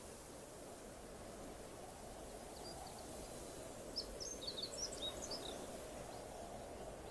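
Outdoor ambience: a steady low background noise, with a small bird giving a quick run of short, high chirps around the middle.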